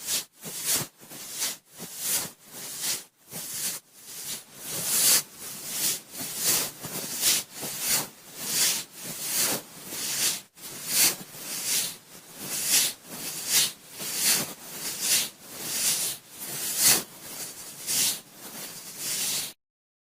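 Cotton swab swirling and rubbing inside the ear of a binaural microphone, giving close, scratchy rustling strokes just under two a second that cut off abruptly near the end.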